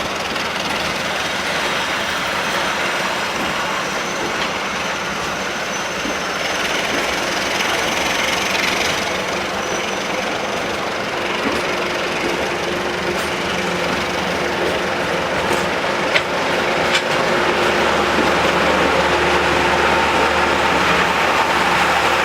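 Diesel locomotive engine running steadily beside a station platform, with a deeper hum joining about seventeen seconds in.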